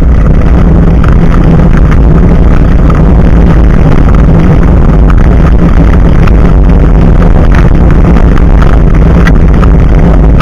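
Loud, steady wind and road rumble on the microphone of an action camera mounted low above a bicycle's front tyre, with frequent small rattling clicks from the mount shaking as the bike rolls.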